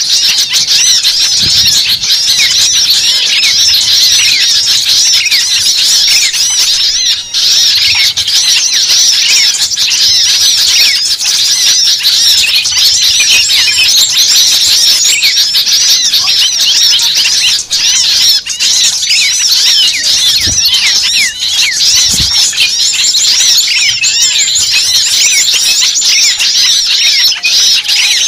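Dense, continuous chorus of many small birds chirping and twittering at once, loud and unbroken.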